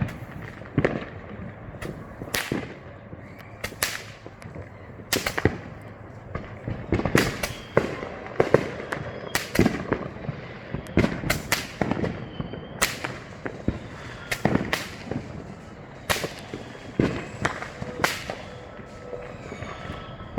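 Consumer fireworks going off all around: a dense, irregular run of bangs and crackles, several closely spaced cracks about every second, some loud and near, others fainter and farther off.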